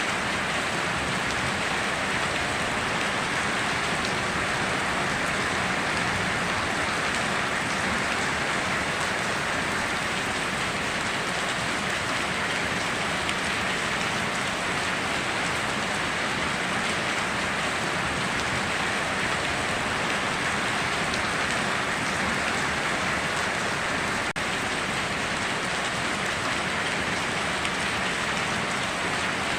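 Steady rain pouring down, an even, unbroken hiss of countless drops, with one momentary dip in level about three-quarters of the way through.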